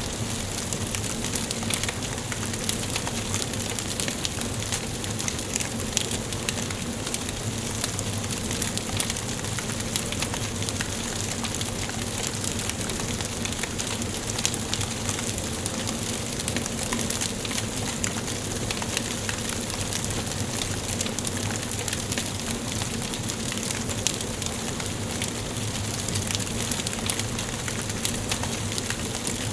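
Wood fire burning in a fireplace: a steady hiss with frequent small crackles and pops from the burning logs.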